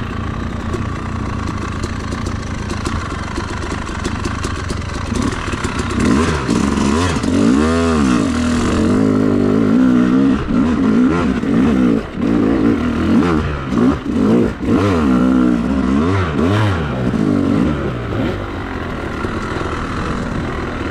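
Yamaha YZ250 two-stroke dirt bike engine running. It is steady at first, then for about twelve seconds in the middle it revs up and down repeatedly, rising and falling in pitch, before settling back to steadier running near the end.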